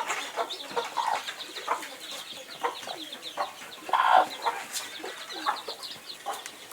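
A flock of kienyeji (indigenous) chickens clucking while they feed, with many short, overlapping calls and a louder call about four seconds in.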